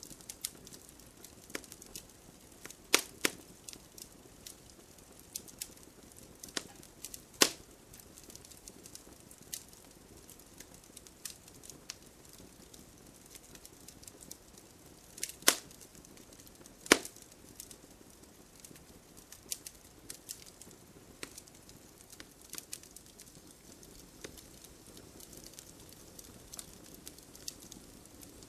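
Wood campfire crackling: a soft steady hiss of burning with frequent small ticks and snaps, broken by a few loud sharp pops, two close together about three seconds in, one about seven seconds in, and two more past the halfway point.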